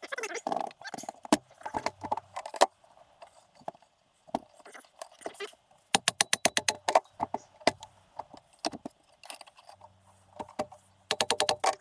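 Metal tools and engine parts clinking and knocking during engine disassembly, with two runs of rapid, even clicks, one in the middle and one near the end.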